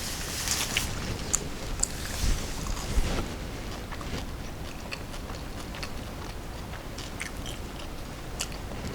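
Close-miked biting and chewing of crunchy fried banana fritter, with a burst of crisp crunches in the first three seconds, then softer chewing with a few small clicks.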